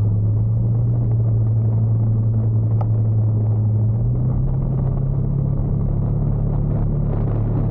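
Motorcycle engine running steadily under way, a low drone that steps up a little in pitch about four seconds in as the engine speed rises.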